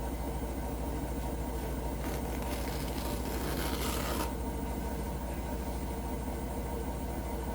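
Hotpoint NSWR washing machine running with a steady low hum and rumble, the weird noise whose cause the owner is asking about. A hissing rush swells about two seconds in and cuts off suddenly about four seconds in.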